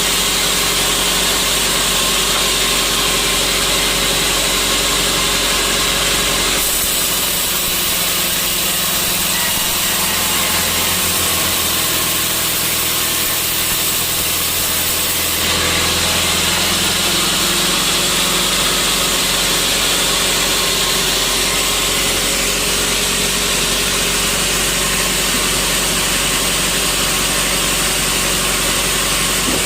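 Sawmill machinery running steadily, with a loud mix of engine-like hum and noise. Its tone changes for several seconds in the middle, then returns to the earlier sound.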